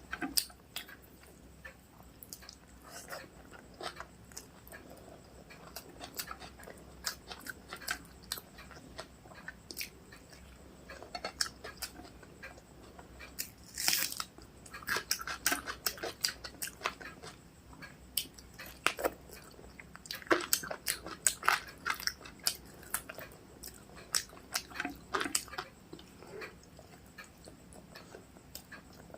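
A person chewing and eating rice with chicken curry and egg curry close to the microphone: irregular wet mouth clicks and smacks, with louder clusters about halfway through and again about two-thirds of the way in.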